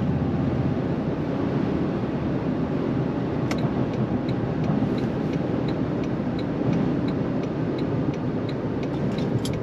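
Steady road and engine noise inside the cab of a moving 2026 Toyota Tundra TRD Pro with its hybrid twin-turbo V6. A click comes about three and a half seconds in, followed by a faint even ticking about twice a second.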